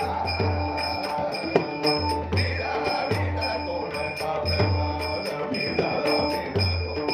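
Marathi devotional bhajan music with a steady drum beat and ringing hand cymbals.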